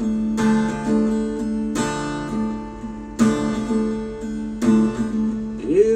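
Acoustic guitar strummed, chords ringing, with a strong strum about every one and a half seconds.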